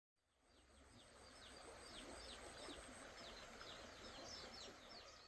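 Faint birdsong: many short chirps, each falling quickly in pitch, several a second, over a soft outdoor hiss. It fades in at the start and fades out at the end.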